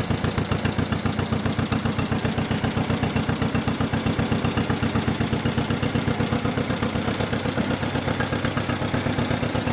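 1955 John Deere 40 S tractor's two-cylinder engine running with a steady, even putt-putt beat as the tractor is backed up.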